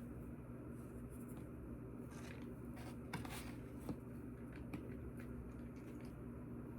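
Faint indoor room tone with a steady low hum, and a few small rustles and clicks of objects being handled about halfway through.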